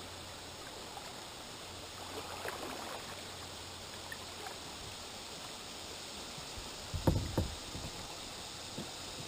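Kayak paddling on a river: paddle strokes and water splashing, with a short cluster of knocks against the kayak about seven seconds in.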